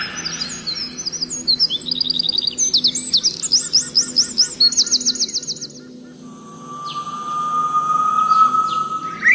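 Songbirds singing: quick series of high, sharply rising notes in changing patterns, then a long, slowly rising whistle in the last few seconds.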